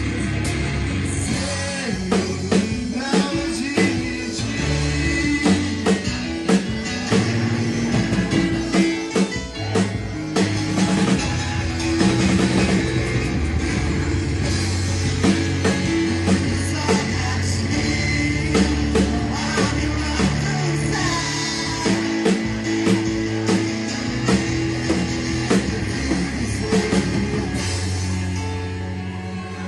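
Rock music with electric guitar, bass and a drum kit, and some singing.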